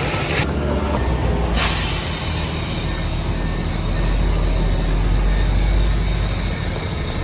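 Heavy diesel earthmoving machinery running with a steady low drone, overlaid by a broad hiss that drops out briefly and cuts back in about a second and a half in.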